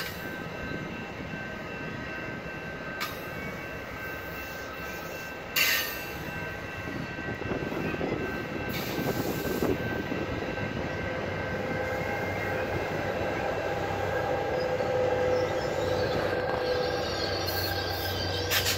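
Exo commuter train of bilevel passenger coaches rolling past, its wheels giving a steady high squeal with a few sharp clanks, the loudest about five seconds in. Toward the end the diesel locomotive at the rear draws level and its engine hum grows louder.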